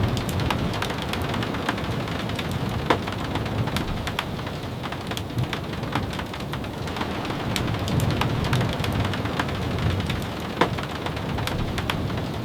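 Steady rain with a low rumble underneath and frequent sharp single clicks scattered through it.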